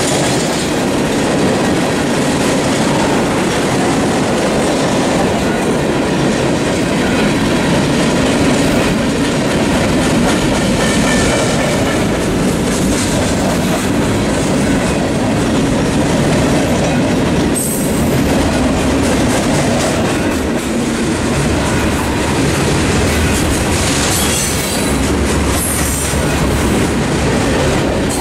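Freight cars of a mixed freight train rolling past at close range: a steady rumble of steel wheels on rail with clickety-clack over the rail joints. A few brief high wheel squeals come through in the second half.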